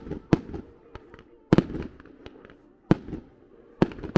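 Fireworks going off over a ski slope: a quick run of sharp bangs, about five loud ones with smaller cracks between them, each followed by a short echo. The loudest bang comes about a second and a half in.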